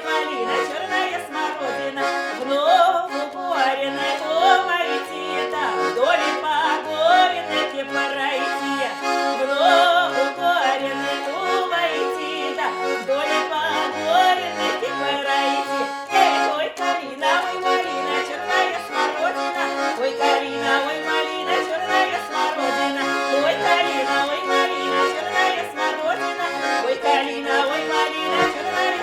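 Accordion playing a Russian folk-style tune, with a melody over evenly repeating bass notes.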